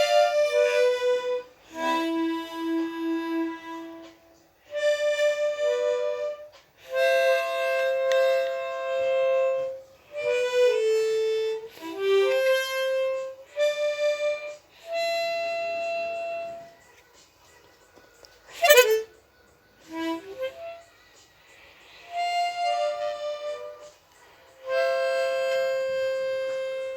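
Solo harmonica playing slow melodic phrases of held notes with short pauses between them, with one loud, quick swooping note about two thirds of the way through.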